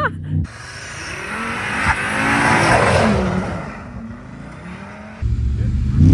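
A car engine revving with its tyres spinning in snow. The noise swells to a peak about three seconds in and then fades. A louder, steadier engine note cuts back in near the end.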